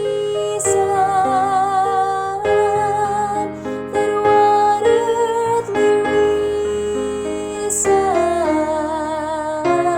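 A woman singing the soprano 2 part of a three-part women's choral arrangement over piano accompaniment, holding long notes with vibrato.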